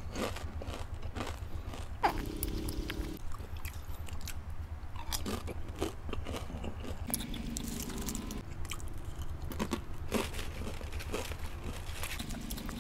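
Close-up crunching and chewing of thin, crisp nacho-cheese tortilla-style chips, with a loud crunch about two seconds in and many smaller crunches after it. A few short low hums and a steady low hum lie underneath.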